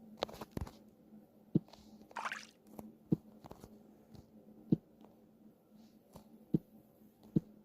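Scattered soft clicks and taps, about seven spread unevenly, with a short rising swish about two seconds in.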